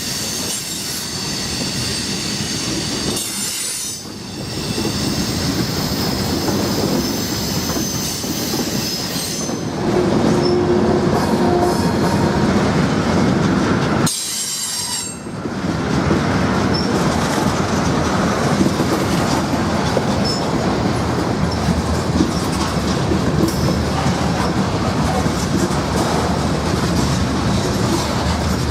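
Norfolk Southern train rolling past, its wheels squealing on the rail with high-pitched tones in the first part, then a steady rolling rumble with clicking over the rail joints.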